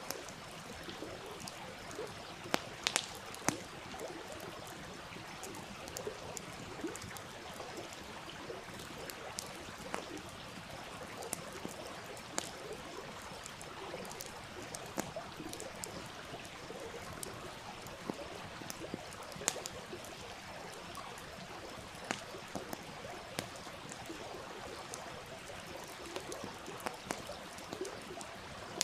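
A stream's steady rush of water with the sharp, scattered crackles and pops of a campfire, including a quick cluster of pops about three seconds in.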